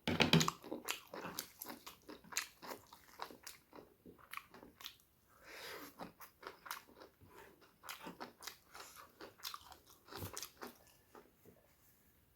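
A person chewing food close to the microphone: irregular mouth clicks and short chewing sounds.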